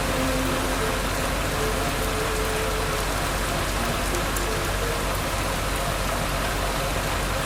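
A steady, even hiss like rain falling, with a few faint held tones beneath it.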